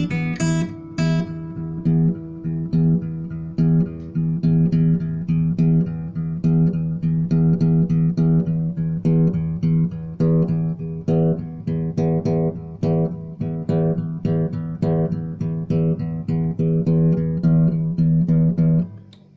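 Guitar music: quickly plucked notes over a steady low bass note, ending abruptly near the end.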